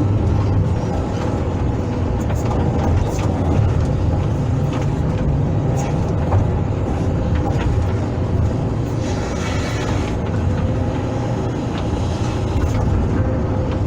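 Hydraulic excavator's diesel engine running steadily as the machine works, with a brief hiss about nine seconds in.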